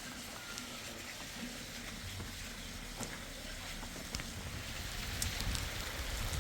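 Steady rain falling, with a few faint ticks of drops near the end.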